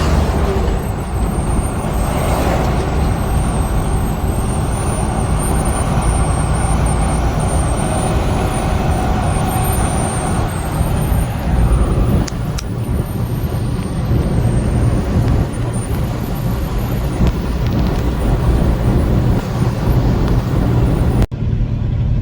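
Semi-truck running down the highway, heard from inside the cab: a steady low engine drone under tyre and road noise.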